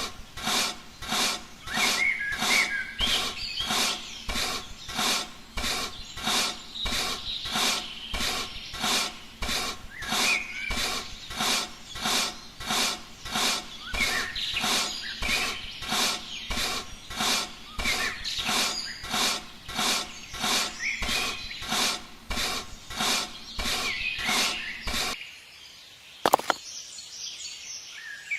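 Rhythmic scraping or rubbing strokes, a little under two a second, that stop suddenly near the end. Birds chirp in the background.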